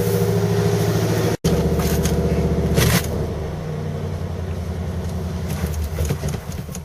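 Chevrolet 305 V8 running, settling to a lower, weaker idle about three seconds in and dying away near the end: the cold engine stalling, not yet ready to idle after two years sitting.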